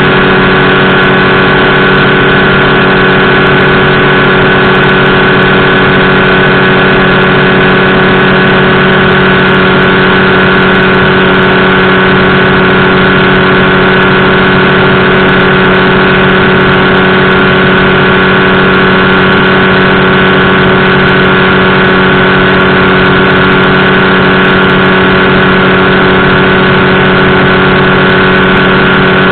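Powered parachute's engine and propeller running loud at a steady, unchanging speed.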